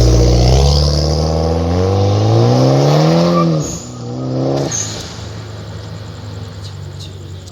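Mitsubishi Lancer's turbocharged 4B11 four-cylinder engine revving, its pitch climbing steadily for about three and a half seconds. The throttle is then let off and the revs fall away sharply. It settles to a lower, steadier note that slowly fades.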